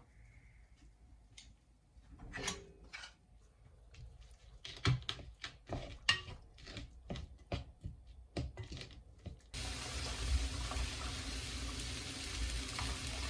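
Kitchen clatter: a run of sharp clinks and knocks of dishes and utensils, thickest in the middle of the stretch. Near the end it gives way to a steady sizzle of food frying in a pan.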